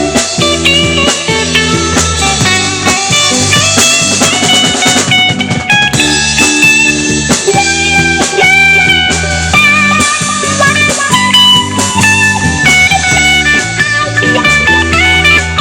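Live rock band playing an instrumental passage: electric guitar playing sustained lead notes over bass and drum kit.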